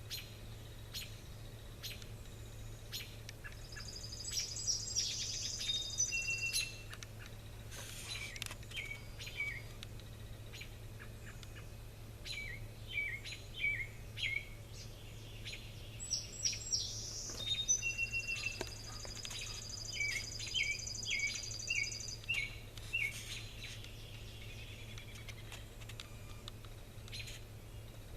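Small birds chirping and singing, with a long high trill twice, once about four seconds in and again from about sixteen to twenty-two seconds, and many short chirps between. Scattered light taps, and a steady low hum underneath.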